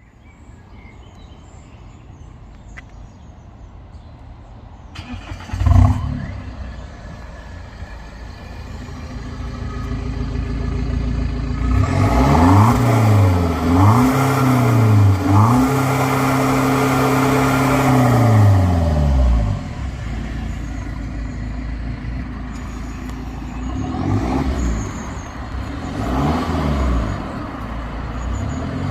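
BMW F10 520d's four-cylinder diesel running through an exhaust with the rear silencer deleted. A short loud burst comes about six seconds in. Later the engine is revved in three quick blips, held at higher revs for a few seconds, then dropped back to idle, with two smaller blips near the end.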